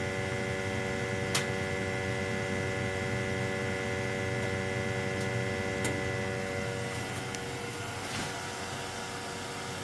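Gas-fired boiler running with a steady hum and several steady tones, some of which drop away about six and a half seconds in, with two light clicks.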